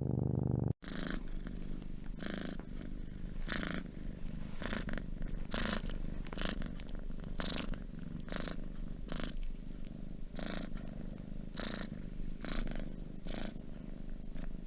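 An animal purring: a steady low rumble with a brighter rasp that recurs about once or twice a second. It starts after an abrupt cut just under a second in, which ends a different, lower hum.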